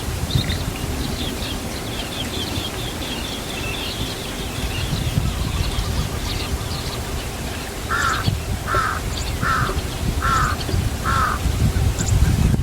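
Birds calling: a run of high, quick chirps through the first half, then five separate calls spaced a little under a second apart, over a steady low rumble.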